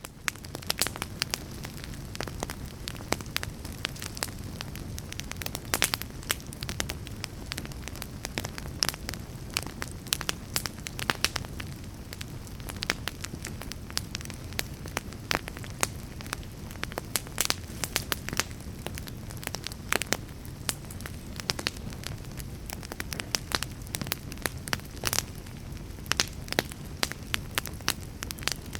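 Fire crackling: a steady low rumble of flames with many sharp, irregular pops and snaps.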